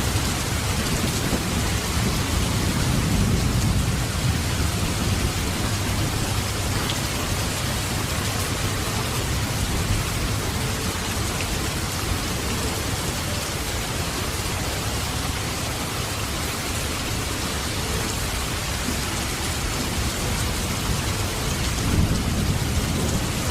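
Heavy rain pouring steadily, with deeper low rumbles swelling up a few seconds in and again near the end.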